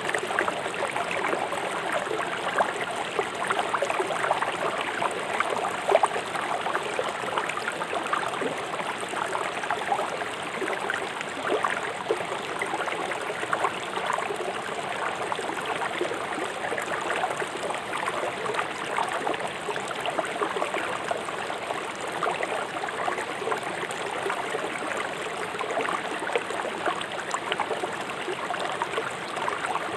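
River water rushing fast over stones: a steady splashing, gurgling rush with many small splashes and no pauses.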